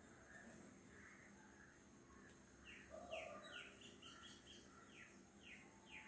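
Faint bird calls: a run of short, quickly falling chirps in the second half, over a steady high-pitched hum.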